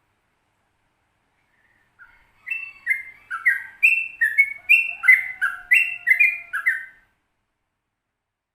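Sooty-headed bulbul (trucukan) singing a quick, rolling 'ropel' phrase. It is a run of about a dozen short, clear whistled notes, two or three a second, that starts about two and a half seconds in and stops about two seconds before the end.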